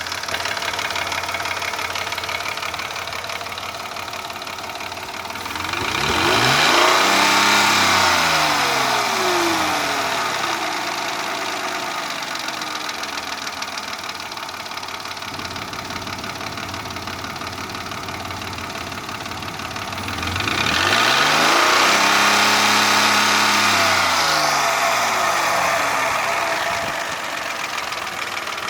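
Mercedes-Benz M112 2.6-litre V6 idling with a knock, blipped up twice, about six seconds in and again about twenty-one seconds in, each time held a few seconds and then falling back to idle. The knock is one the owner puts down to the cylinder-piston group, that is, worn pistons or cylinders.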